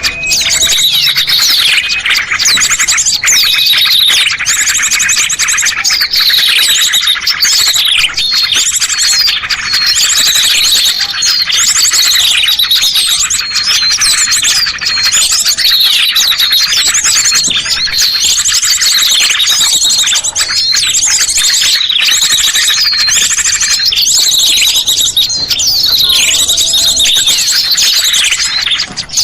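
A dense chorus of many small songbirds chirping, whistling and trilling at once, with quick falling whistled notes and fast trills overlapping without a break: a loud bird-lure (pikat) recording of small birds.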